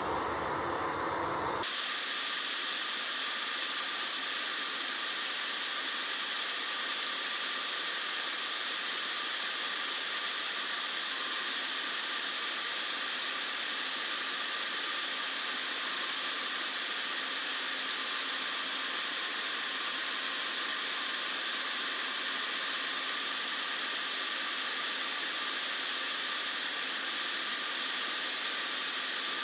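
Electric nail drill running steadily against the nail to file off old gel, a continuous high hiss with a faint whine, starting afresh about two seconds in.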